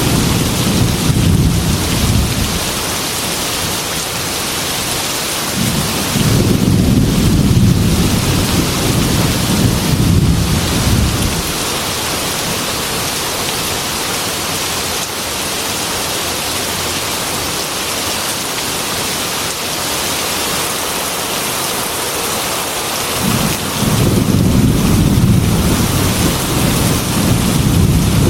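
Heavy rain pattering steadily on a glass window, with rolling thunder rumbling low three times: at the start, for about five seconds from six seconds in, and again near the end.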